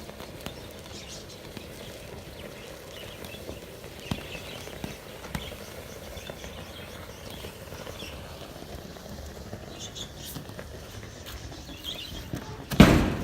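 Steady low background with scattered small crackles and faint high chirps, then near the end one sudden very loud blast that dies away within about half a second: the home furnace erupting as the melting aluminium car radiator flares up. The owner puts the flare down to magnesium or zinc in the radiator alloy igniting.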